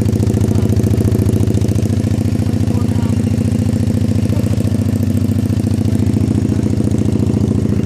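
A 140cc pit bike's single-cylinder four-stroke engine idling steadily, with no revving.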